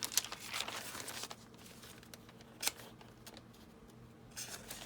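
Paper rustling as sheets are handled and placed, with a sharp tap about two and a half seconds in.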